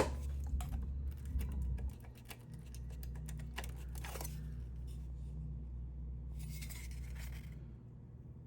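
Light clicks and clinks of small hard objects being handled, over a steady low hum that drops in level about two seconds in. A short rustle comes near the end.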